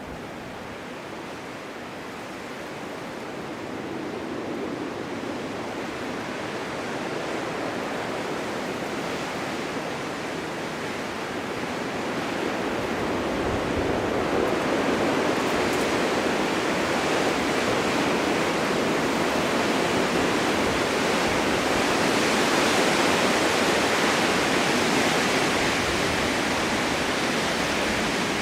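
Snowstorm wind blowing as a steady rush of noise, swelling louder about halfway through and staying strong.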